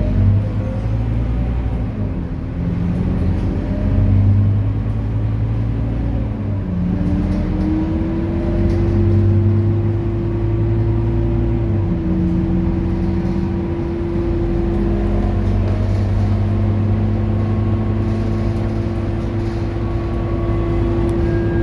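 Scania K230UB city bus's diesel engine running while under way, its low drone swelling and easing every few seconds. A steady whine runs over it, rising slightly about seven seconds in and then holding.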